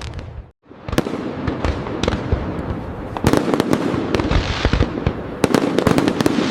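Fireworks display: a rapid, irregular run of sharp bangs and crackles, denser in two clusters, after a momentary dropout about half a second in.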